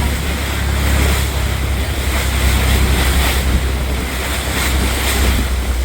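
Wind buffeting the microphone over open sea water, with a steady low rumble underneath.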